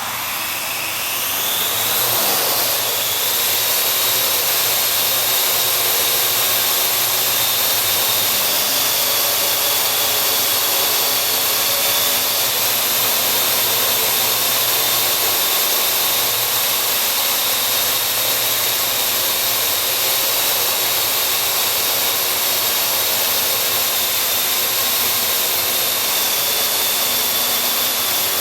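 Parrot AR.Drone quadcopter's four electric rotors spinning up to take off, their whine rising over the first couple of seconds. It then holds as a steady, loud whir of motors and propellers while the drone hovers and flies.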